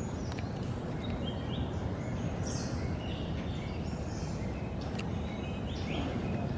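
Small birds chirping over and over in short, high notes, against a steady low background rumble.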